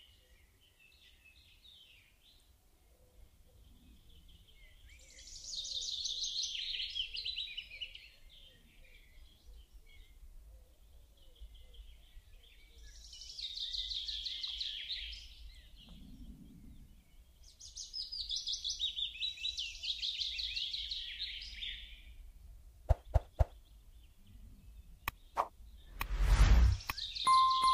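A songbird singing three long trilled phrases a few seconds apart. Near the end come a few sharp knocks and a heavier thump.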